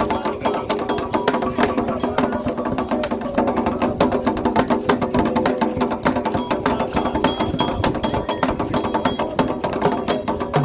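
Candomblé drumming by alabês: a dense, steady rhythm of quick percussive strokes, with ringing, sustained tones under it.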